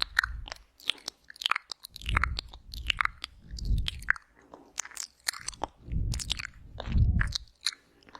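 ASMR ear-eating mouth sounds very close to the microphone: a dense run of wet clicks, smacks and lip sounds, broken by several low, muffled swells lasting about half a second each.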